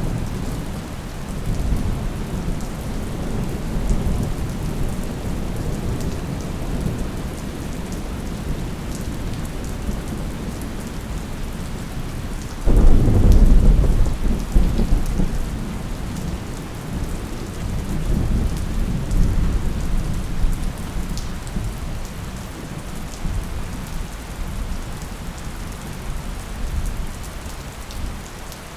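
Thunderstorm: steady rain falling, with low rolling thunder throughout. About halfway through, a sudden loud crack of thunder rumbles away over several seconds, and another swell of rumbling follows a few seconds later.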